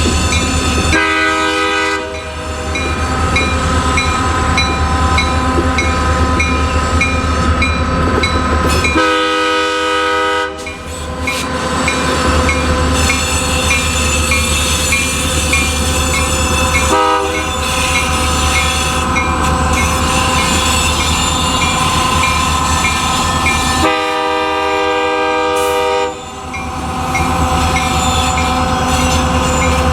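Locomotive horn sounding the grade-crossing signal, long, long, short, long, over the steady rumble of the passing train.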